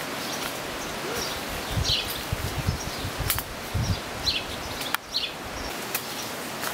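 A small bird chirping over and over with short, high notes, against background noise. A low rumble comes and goes in the middle, and there are two sharp clicks about three and five seconds in.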